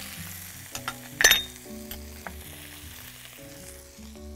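Sliced artichokes and minced garlic frying in olive oil in a very hot wok: a steady sizzle, with one sharp knock about a second in.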